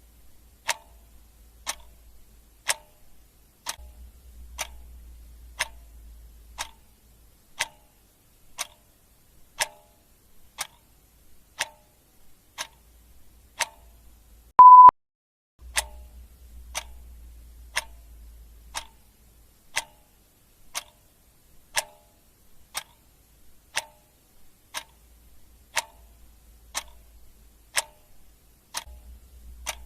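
Clock ticking steadily, about once a second. About halfway through, a single short high beep cuts in.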